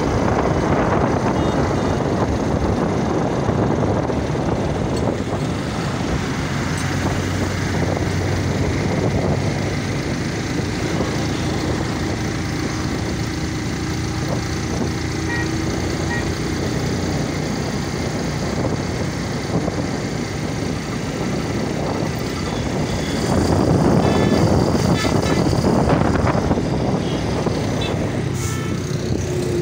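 Motorcycle running steadily on the move, with road noise and the sound of street traffic around it, growing louder for a few seconds near the end.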